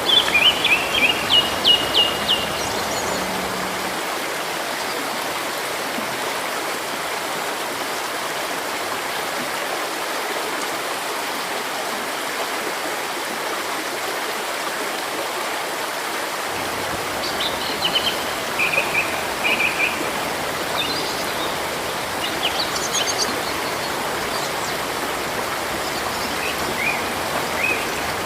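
Steady rushing of a river with songbirds chirping over it: a quick run of about eight chirps at the start, scattered chirps again from about two-thirds of the way through, and a couple more near the end.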